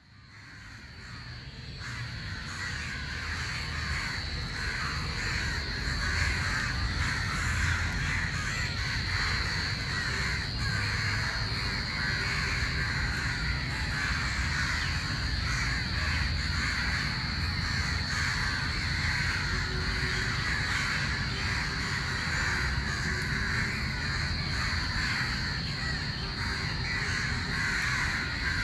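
Many crows cawing over one another in a continuous, dense chorus that fades in over the first few seconds, with a steady high-pitched tone underneath.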